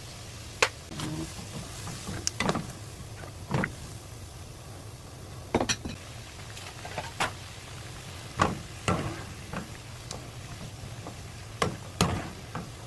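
Kitchen handling sounds: scattered clinks and knocks of a pot and utensils, about a dozen at irregular intervals, as julienned burdock is blanched in boiling water with vinegar, over a low steady hum.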